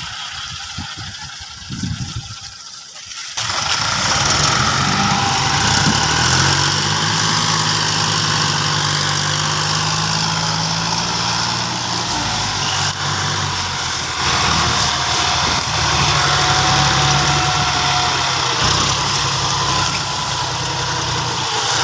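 Diesel tractor engine, a John Deere 5310, running. It comes in suddenly about three and a half seconds in and holds steady, its engine speed shifting a few times.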